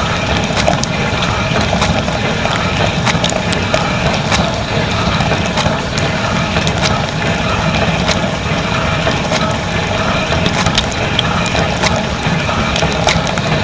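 Dishwasher running a wash cycle, heard from inside the tub: a steady rush of spraying water and pump noise, with many irregular clicks and rattles.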